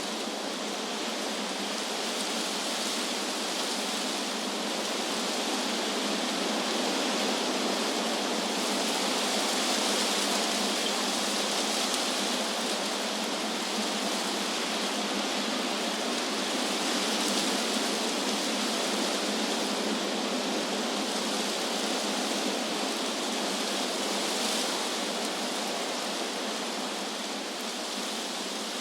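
Wind blowing through trees, a steady rushing hiss of leaves that slowly swells and eases without a break.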